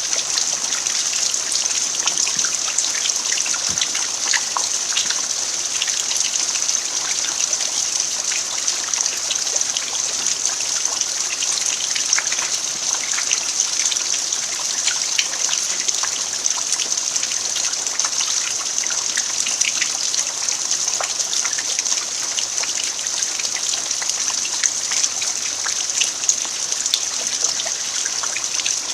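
Steady rain falling on a dirt yard, a constant hiss with many small drop ticks and trickling water.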